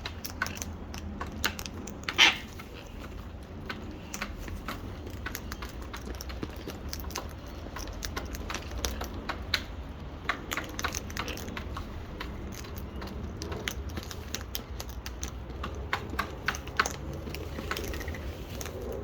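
Birds' beaks pecking and scraping at nearly empty seed containers and cracking the last seeds: an irregular patter of small clicks and taps. There is one louder, brief sound about two seconds in.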